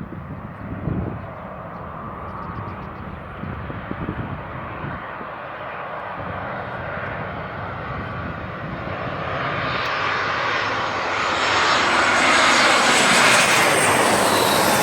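Airliner on landing approach flying low overhead: engine noise that builds steadily louder and higher, loudest over the last few seconds as it passes.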